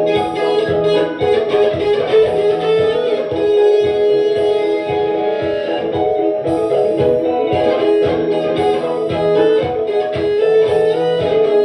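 Electric guitar playing a steady stream of quick notes over held, sustained tones.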